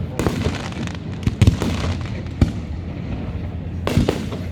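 Aerial fireworks bursting close by: a string of sharp, loud booms, a few of them in quick succession in the middle, each followed by a brief echo.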